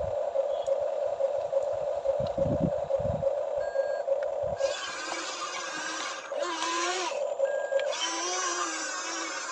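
Small electric motors whining, as in an RC toy excavator working: a steady pulsing buzz, replaced about five seconds in by a higher whine whose pitch wavers and shifts several times.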